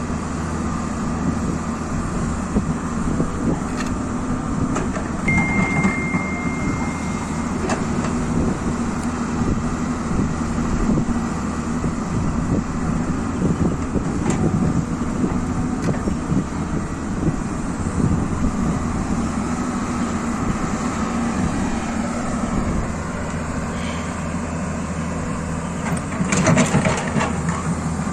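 Excavator's diesel engine running steadily under work, with scattered knocks. A short high beep sounds about five seconds in, and there is a louder burst of clattering near the end.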